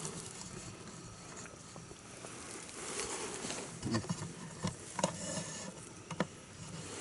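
Quiet handling sounds: a few soft, sharp clicks and light rustles, scattered through the second half, over a low steady background hiss.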